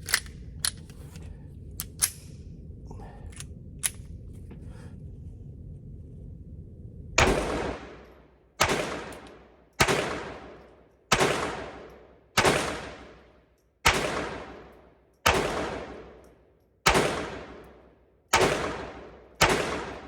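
Ruger LCP II .22 LR pistol firing ten shots at a steady pace, about one every second and a half, with no malfunction. A few light clicks come before the first shot.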